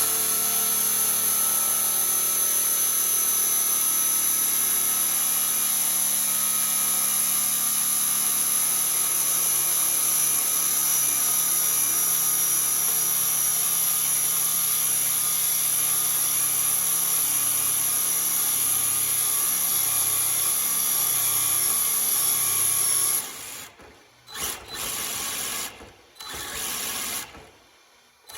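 Electric RC drift car's motor and drivetrain whining at full throttle as its rubber tires spin in place in a burnout attempt. The steady high-pitched whine cuts off about 23 seconds in, followed by three short throttle bursts.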